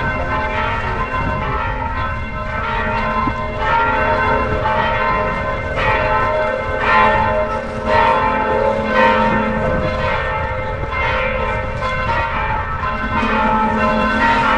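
Church bells pealing, several bells striking about once a second, their tones overlapping and ringing on.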